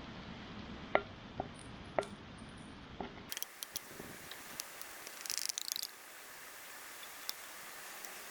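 Pancake batter cooking in a camp frying pan that the cook suspects is too hot: soft sizzling and hiss, with a few sharp clicks of a utensil against the pan. A quick run of rattling clicks comes about five to six seconds in.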